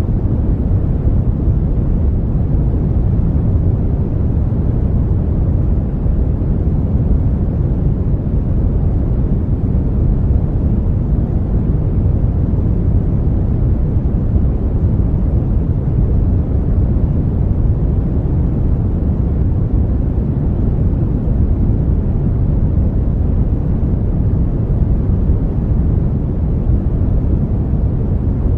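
Brown noise: a steady, deep rumbling hiss with most of its weight in the bass and little above a couple of kilohertz, unchanging throughout.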